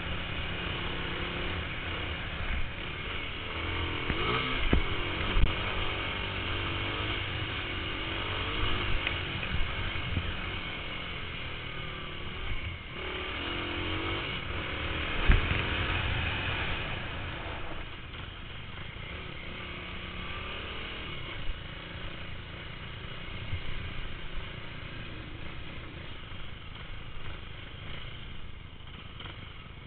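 Motocross motorcycle engines running and revving, rising and falling in pitch, with a few sharp knocks. The sound grows fainter after about eighteen seconds.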